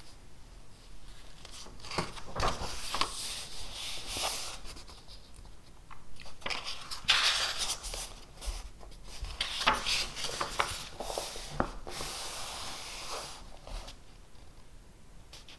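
Writing by hand on paper: irregular scratchy strokes in busy bursts, with a few light clicks in between.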